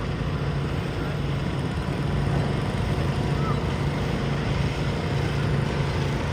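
Garden tractor engine running steadily, holding one pitch.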